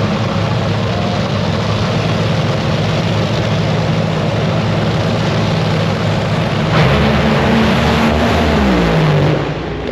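Drag racing engines running with a steady, loud drone. About seven seconds in a louder engine comes in, and over the next second or two its pitch drops.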